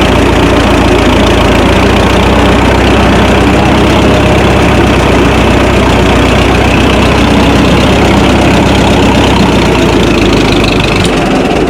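Minneapolis-Moline tractor engine running steadily and loudly as the tractor is driven; just before the end the low engine note drops away.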